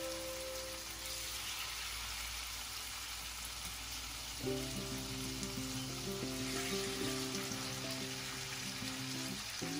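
Spice-marinated salmon pieces frying in hot oil in a non-stick frying pan, with a steady sizzle.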